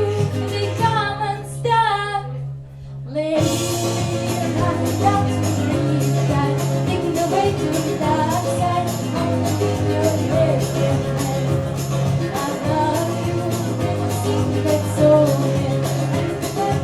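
A song performed with singing over backing music. A sung phrase sounds over a light accompaniment, then about three seconds in the full accompaniment comes in with a steady beat and a moving bass line.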